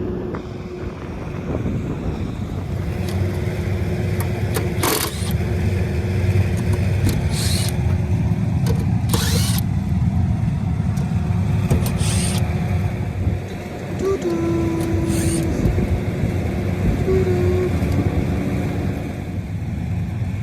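Carrier rooftop HVAC units running: a steady, loud low rumble of fans and compressors, with short bursts of hiss about five times.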